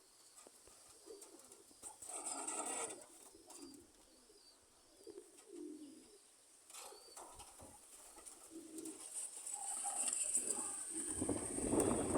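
Domestic pigeons cooing several times in soft low calls. Wind buffets the microphone, building up near the end.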